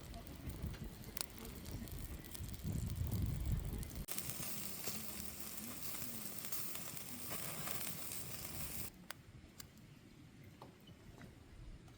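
Wood fire crackling with sharp pops, with a low rumble for the first few seconds. From about four seconds in there is a steady hiss like food sizzling over the fire, which stops abruptly near nine seconds and leaves scattered pops.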